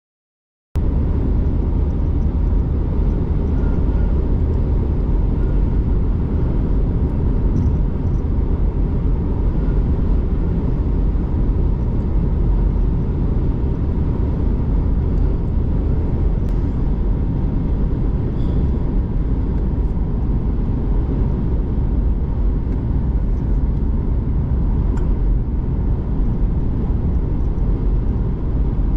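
Steady rumble of a car driving at speed, road and wind noise, starting abruptly just under a second in after dead silence.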